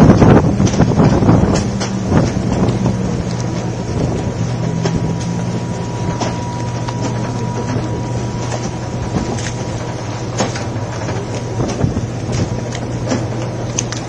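Steady low engine drone of a ferry under way, with a noisy rush of wind and water and a few scattered clicks and knocks; it is louder for the first couple of seconds.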